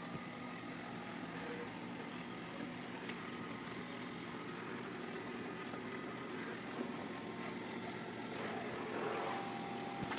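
Xiaomi X20 Max robot vacuum running: a steady motor hum with a faint whine, a little louder near the end.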